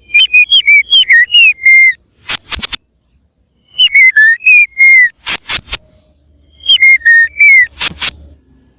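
White-rumped shama (murai batu) singing loudly: three phrases of clear, sliding whistled notes, each followed by a few short harsh rasping notes.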